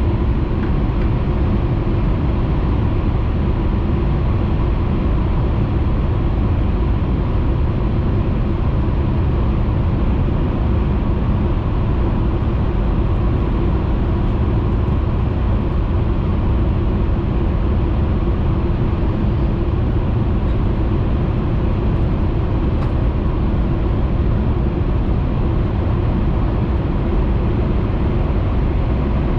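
Steady running noise heard inside the cabin of a Hayabusa Shinkansen train travelling at speed: an even rumble of wheels, track and air with a faint steady whine.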